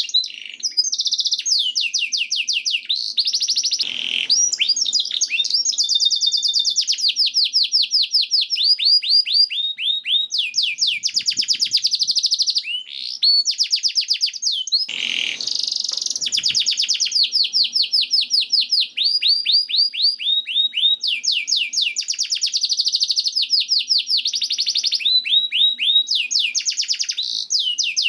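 Domestic canary singing without pause: long rolling trills of rapid repeated notes, broken by quick upward and downward whistled glides.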